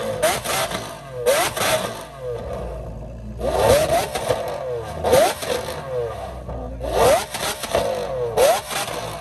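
A supercar's engine revved repeatedly in short, loud throttle blips, the pitch sweeping quickly upward on each, about six times.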